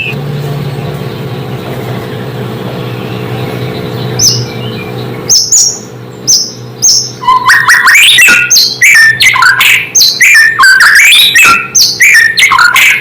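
White-rumped shama (murai batu) song: a few sharp, separate whistled notes, then from about seven seconds in a fast run of varied rising and falling whistles. A steady low hum lies under the first half.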